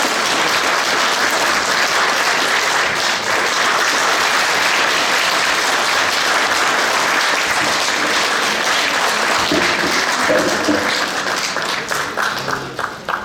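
Audience applauding steadily, thinning out into scattered claps near the end.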